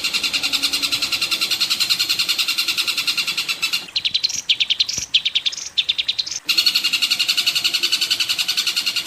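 Recorded songbird song made for masteran training: a fast, steady chattering trill of many notes a second. Around four seconds in it breaks into a different run of separate, higher calls, and the chatter picks up again after about six and a half seconds.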